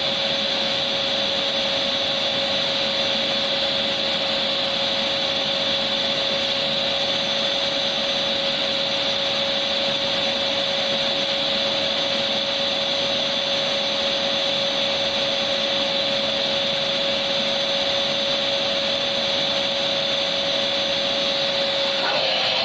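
Electric vacuum cleaner running steadily: a continuous rushing noise with a steady motor whine. Just before the end the sound shifts abruptly and its whine drops slightly in pitch.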